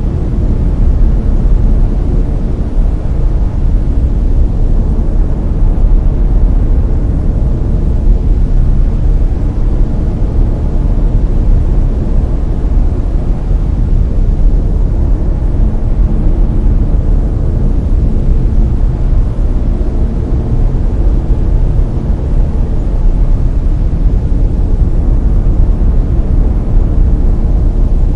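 Steady synthetic brown noise: a loud, even, deep rumbling hiss with most of its weight in the bass and little treble.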